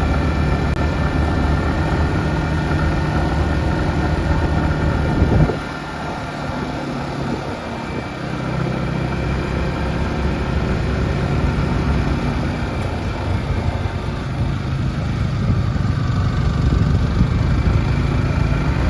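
Single-cylinder engine of a Yamaha R15 motorcycle running steadily. It drops off briefly about five and a half seconds in, then picks up again and grows a little louder toward the end.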